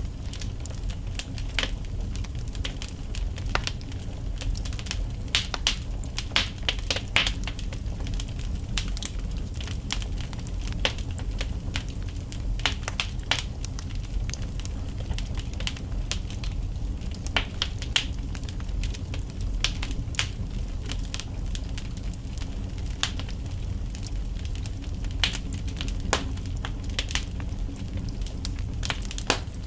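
Wood fire burning in a fireplace: logs crackling and popping at irregular intervals, several snaps a second, over a steady low rumble of the flames.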